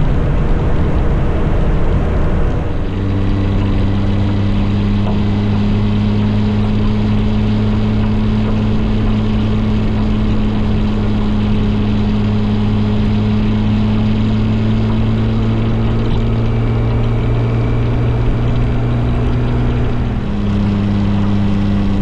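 Motorcycle engine running at a steady cruising speed under a broad rush of wind noise. Its note settles after the first few seconds and holds steady, with a brief dip near the end.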